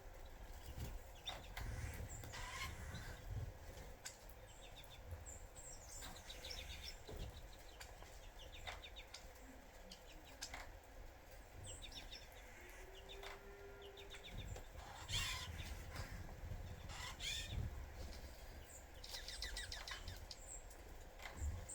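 Small birds at a sunflower-seed feeder: scattered short taps and clicks of pecking at seeds, with a few quick high chirps and trills. Faint low rumble throughout.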